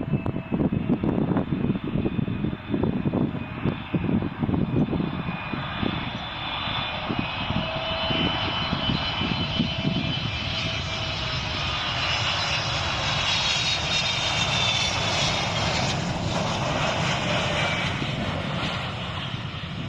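Boeing 777 freighter's jet engines growing louder as it passes low on final approach to land, with a whining fan tone that slowly drops in pitch. Gusty wind buffets the microphone in the first few seconds.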